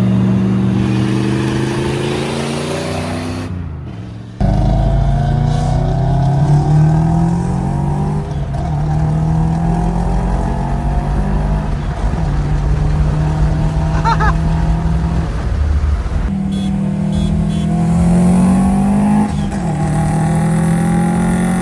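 BMW 335is's twin-turbo N54 inline-six pulling hard through the gears: the engine note climbs steadily and drops back at each of several upshifts. The sound dips and cuts out briefly about four seconds in.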